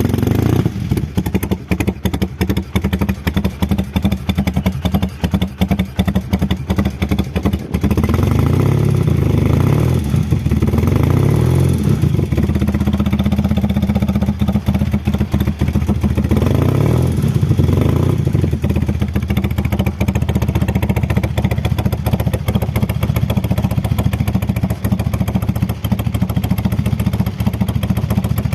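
1975 BMW R90/6 air-cooled flat-twin boxer engine running through Norton peashooter-style mufflers, idling with an even exhaust beat. It is revved up several times around eight to twelve seconds in and once more around seventeen seconds in, settling back to idle each time.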